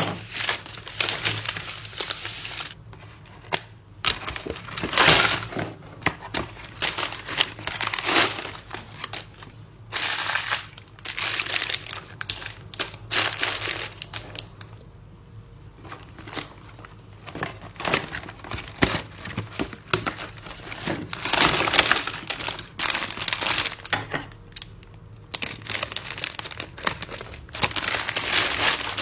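Packaging crinkling and rustling in irregular bursts as photocard freebies are handled and packed.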